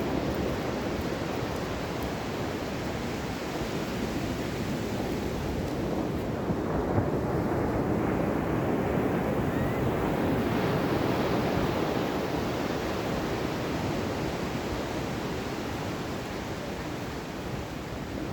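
Ocean waves washing on the shore in a steady rush, swelling a little about halfway through and easing off again, with wind buffeting the microphone.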